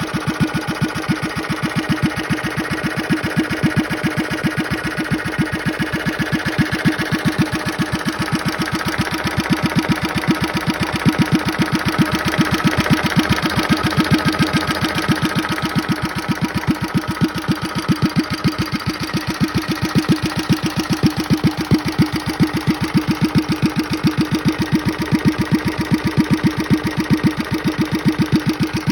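1946-47 Clinton 700A-series (703ABR6) single-cylinder small engine running on its first run after decades of storage, with an even, steady firing beat. It grows a little louder for a few seconds around the middle, then settles back.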